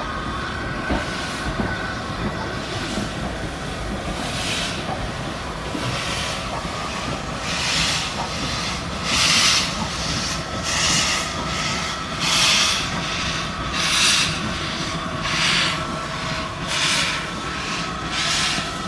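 Steam locomotive working slowly, its exhaust chuffing about once every second and a half and growing louder, over a steady hiss of steam.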